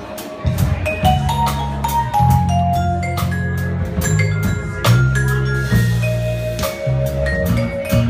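Live band playing an instrumental passage: drums with frequent cymbal strikes, a bass line, and a melody of short bright notes on top.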